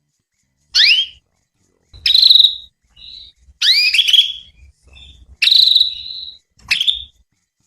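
Female canary calling: a series of about six short chirps, each sweeping upward in pitch, a couple of them ending in a brief held whistle, with short silences between.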